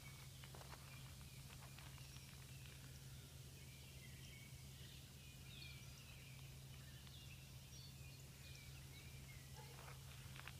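Faint songbird chirps, short notes rising and falling scattered through the middle, over a steady low hum, with a few soft footsteps on dry leaf litter at the start and near the end.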